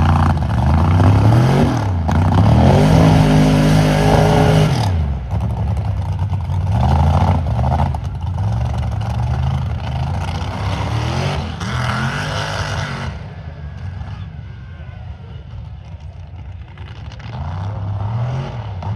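Mega truck engine revving hard in repeated bursts, the pitch climbing and dropping over and over, loudest in the first five seconds. The revs ease off after about thirteen seconds, with one more rev near the end.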